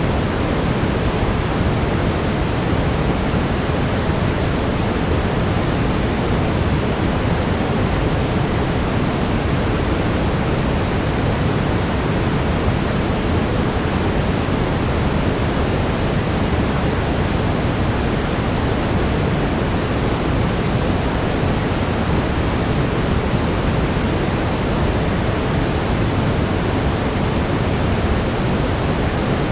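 Steady brown noise, a constant deep rushing hiss, heavier in the lows and unchanging throughout.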